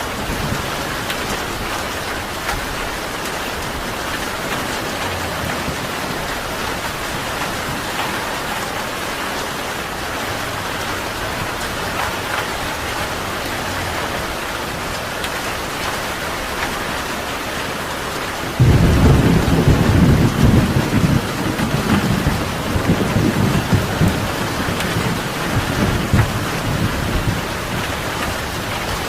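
Steady rain falling. About two-thirds of the way through, thunder breaks in suddenly, a deep rumble that rolls on for several seconds and dies away under the rain.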